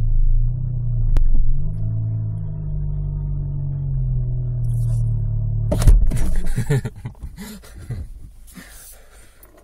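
Saab 9-3's engine idling at about 1000 rpm, heard from inside the cabin as a steady, slightly wavering drone, in a car with a known exhaust leak. About six seconds in there is a thump and the engine note stops, leaving only rustling handling noise.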